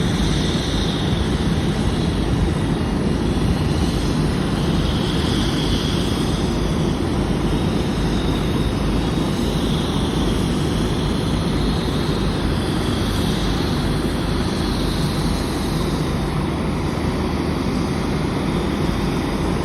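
Boeing 737-8 airliner running steadily during pushback: a continuous, even jet noise without breaks.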